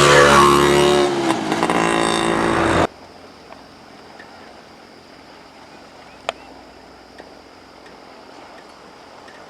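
A Minsk 125 cc two-stroke motorcycle engine running while being ridden, its pitch shifting slightly with the throttle, then cutting off suddenly about three seconds in. After that there is only a quiet steady background with a single sharp tick.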